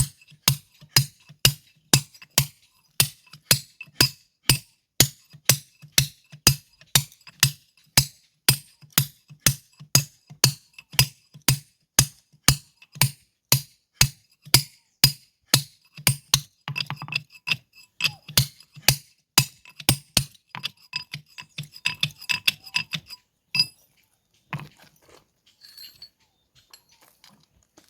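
Steady, evenly spaced hammer blows on ringing steel in stone-splitting work, about two strikes a second. The blows stop about twenty seconds in, giving way to a few scattered lighter clinks and then faint handling sounds.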